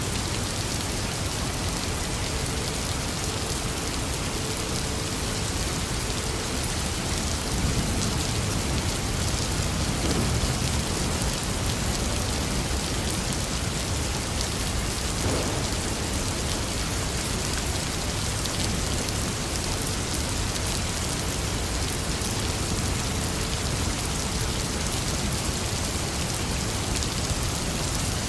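Steady rain falling, an even hiss of drops striking surfaces.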